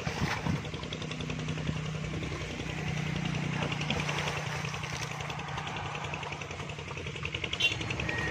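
An engine running steadily with an even low hum, and a brief sharp click near the end.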